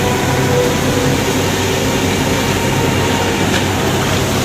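A waterfall rushing steadily, picked up on a phone microphone, with a faint low hum running under it.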